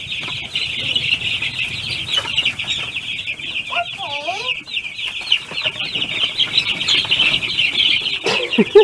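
A flock of baby chicks peeping in a brooder: a dense, continuous chorus of rapid, high, falling cheeps.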